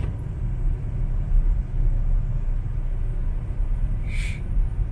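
Steady low rumble of a car's engine and tyres heard from inside the cabin as it drives slowly on a snowy street.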